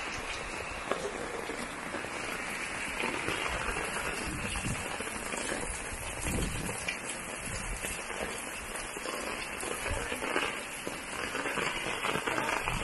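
Heavy rain falling steadily, an even dense hiss of water on surfaces.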